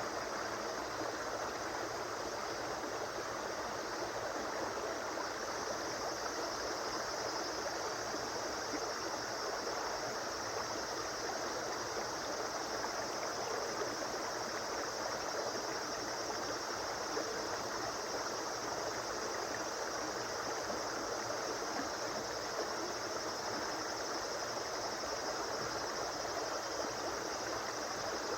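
River water flowing over stones, a steady even rushing and babbling.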